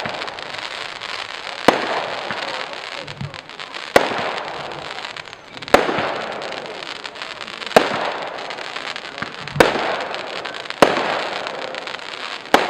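Firework display: seven sharp bangs of shells bursting, roughly one every two seconds, each followed by a fading noisy tail.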